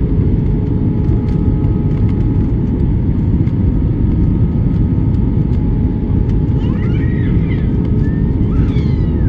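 Airliner cabin noise in flight: a steady low roar of engines and rushing air, with constant hums running through it.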